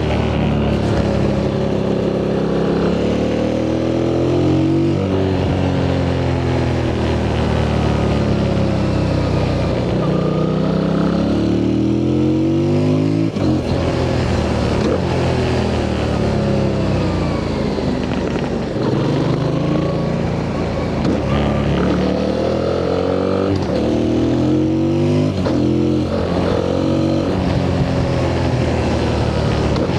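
A 2025 Yamaha MT-07's parallel-twin engine on its stock exhaust, heard from the rider's seat while riding. The engine note rises through the revs and falls again several times as the bike accelerates, changes gear and slows, with sudden drops in pitch like upshifts.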